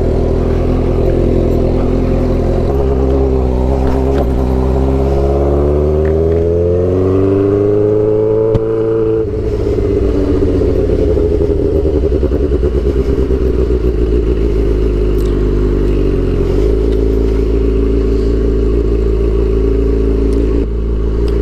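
Suzuki GSX-R600's inline-four engine under way, its pitch climbing for several seconds as it accelerates, then dropping sharply about nine seconds in and running at a steadier speed.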